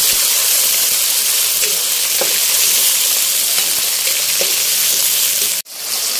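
Fresh shell-on shrimp sizzling and frying in hot oil in a wok, stirred with a metal spatula. The steady hiss cuts out for an instant near the end.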